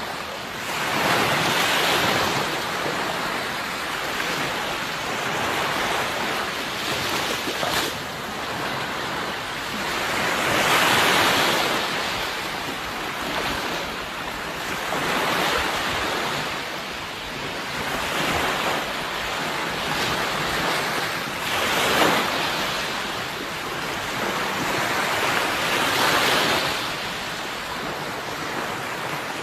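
Sea waves breaking and washing on the shore, the surf swelling and fading every few seconds.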